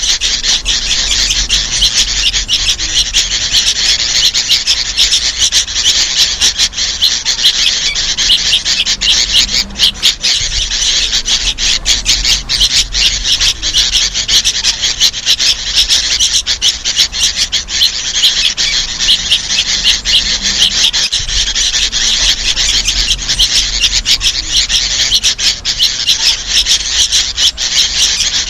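Sooty-headed bulbuls (kutilang) calling without a break, adult calls mixed with the begging calls of young birds in a dense, harsh chatter.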